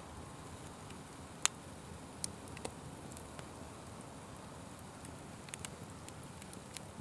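Wood fire burning with a steady low hiss and scattered sharp crackles and pops, the loudest pop about a second and a half in.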